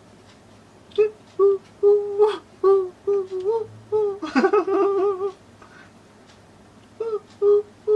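A high, whining voice: a string of short whimpering notes at one pitch, starting about a second in, then a longer wavering note near the middle. After a pause of about two seconds, more short notes follow near the end.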